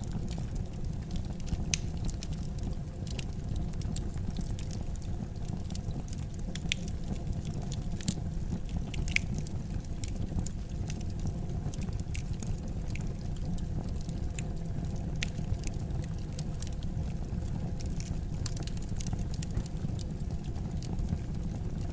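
Wood fire burning in a fireplace: a steady low rumble of flames with irregular sharp crackles and pops, a few louder pops near the middle.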